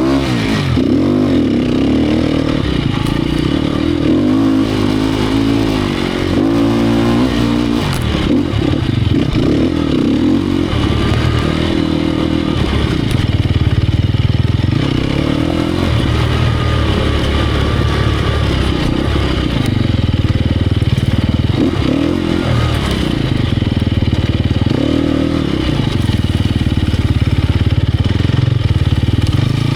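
Sherco 250 SEF Factory's single-cylinder four-stroke engine under riding load, its pitch rising and falling again and again as the throttle is opened and shut.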